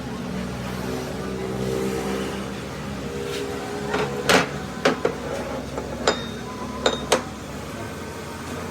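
Sharp metallic knocks and clanks, about seven in three seconds from about four seconds in, some ringing briefly, over a steady machine hum.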